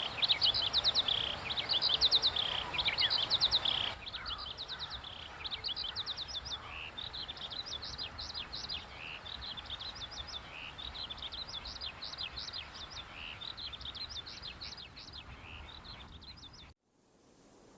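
Small birds singing, with rapid strings of high chirps repeated over and over; the song gets quieter about four seconds in and cuts off abruptly near the end, followed by a faint rising hiss.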